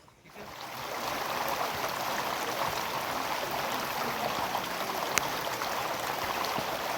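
Steady rushing of water, rising in over the first second, with a single sharp tick about five seconds in.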